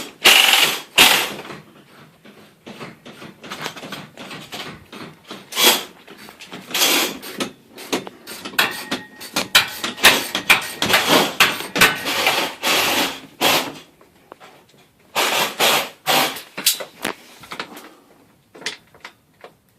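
Garage door hinges and panel hardware being handled and fitted: irregular clanks, clicks and knocks, dense through most of the stretch and thinning out near the end.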